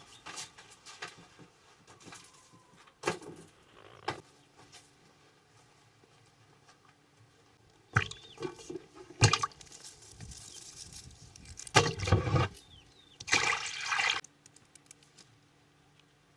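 Water being poured and splashing, in several short bursts with pauses between them.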